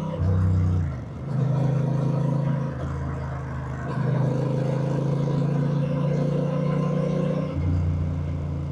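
Honda Rebel 1100's 1084 cc parallel-twin engine running under way, the engine note dropping briefly about a second in and then holding fairly steady with small changes in pitch.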